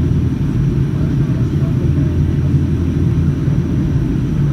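Steady low rumble of engine and airflow noise inside the cabin of a Boeing 757 airliner, even throughout.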